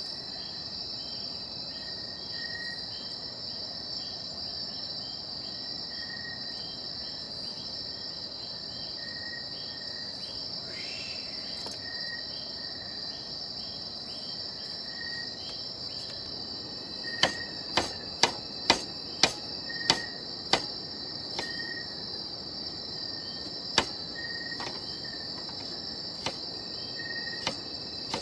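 A steady high-pitched insect chorus of crickets, with a short chirp repeating about every second and a half. A little over halfway through, a quick run of about eight sharp knocks comes roughly two a second, followed by a few more single knocks near the end.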